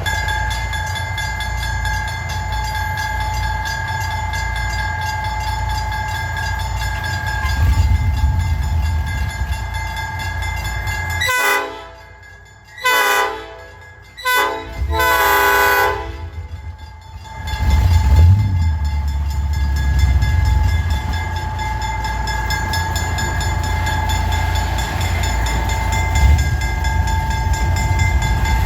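Amusement-park train's diesel locomotive running with a steady engine rumble and a constant whine above it. About halfway through its horn sounds three times, the last blast the longest. A few seconds later the engine grows louder and stays that way.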